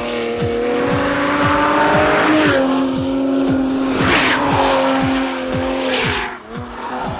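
A high-performance car with an Akrapovič exhaust running hard on a race track, its engine note jumping in pitch with gear changes about two and a half seconds in and again near the end, with short bursts of tyre noise. Background music with a steady beat plays underneath.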